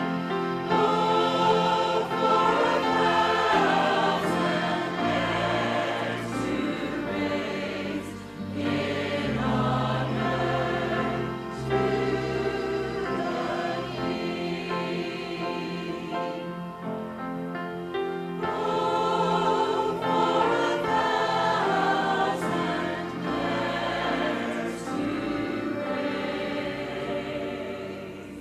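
A choir singing a hymn with instrumental accompaniment, held notes over a sustained low bass line, fading near the end.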